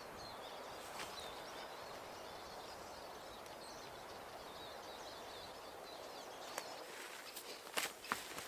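Quiet outdoor ambience: a steady hiss with faint, high chirps of small birds. A few sharp clicks come near the end.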